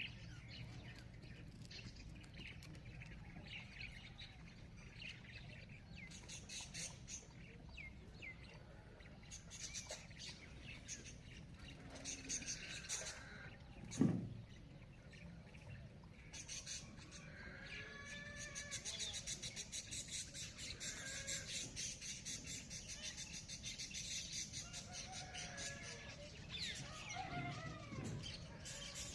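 Several birds chirping and calling, with a rapid run of high chirps through the second half. A single sharp knock about halfway through is the loudest sound.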